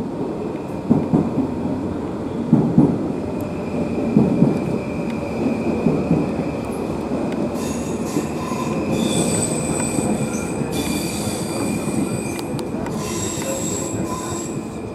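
A rail vehicle running on track, with a few heavy knocks in the first several seconds and high-pitched wheel squeal in the second half.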